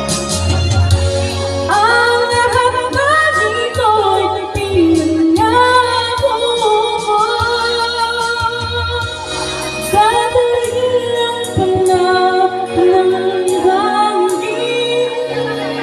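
A woman singing a love song over an instrumental backing track, holding long notes with vibrato and sliding between phrases.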